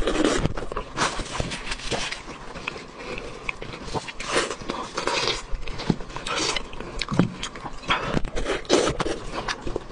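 Close-up eating sounds of braised pig's trotter: wet chewing, lip-smacking and slurping, with the scrape and rustle of gloved hands pulling the meat apart. Irregular clicks and short bursts throughout.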